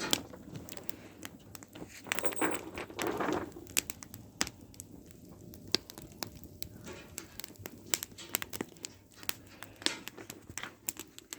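Campfire crackling: irregular sharp pops and snaps of burning wood, with a short stretch of rustling about two to three seconds in.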